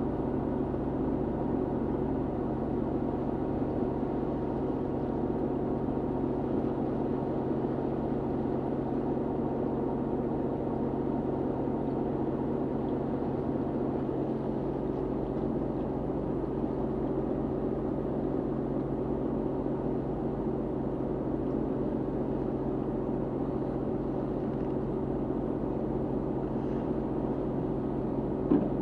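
Fishing boat's engine running at a steady speed, a constant low drone. A single short knock near the end.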